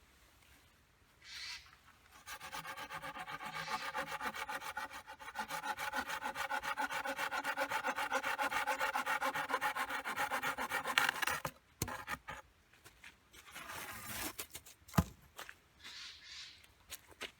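Fast, even rasping strokes on wood, running for about nine seconds and then stopping suddenly. A few scattered knocks and one sharp click follow.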